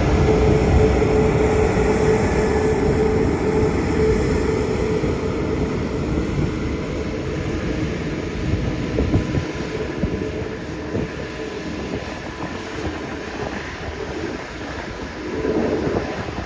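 Jet aircraft engines running on the ramp: a steady rumble with a held whine that slowly fades over the second half.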